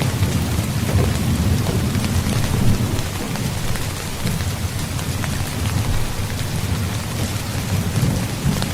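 Steady heavy rain with a low rolling rumble of thunder, heavier in the first few seconds and again near the end.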